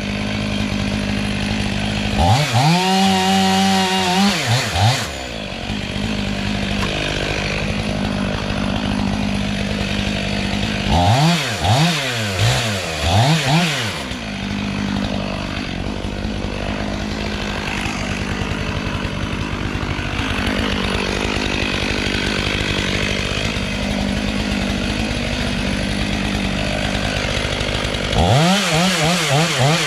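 Chainsaw idling between three bursts at full throttle, about two seconds in, around eleven seconds and near the end, cutting into the tree's wood. Its pitch sags and recovers during each burst as it cuts.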